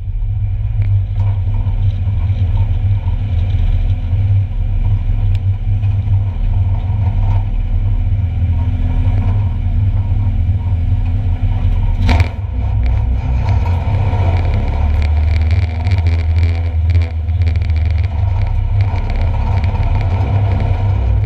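Engines of 1-litre stock cars running during a race, with a continuous rumble and shifting engine pitch. A single sharp bang comes about twelve seconds in, followed by a stretch of rattling and clicking.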